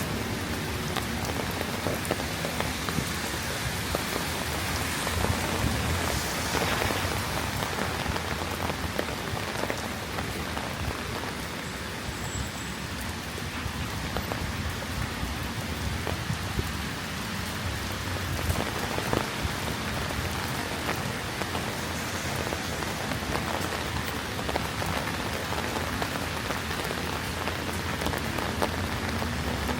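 Steady rain falling, with many small raindrop impacts pattering on the surfaces around.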